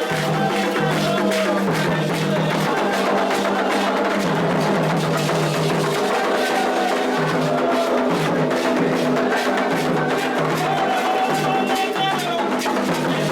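Candomblé ritual music: drums and hand percussion playing a fast, steady beat under voices singing a chant.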